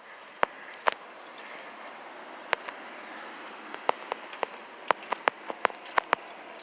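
Scattered sharp clicks and knocks, irregular and more frequent in the second half, over a steady hiss.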